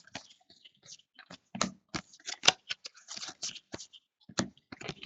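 Basketball trading cards being handled and flipped through one after another: an uneven run of short paper clicks and rustles.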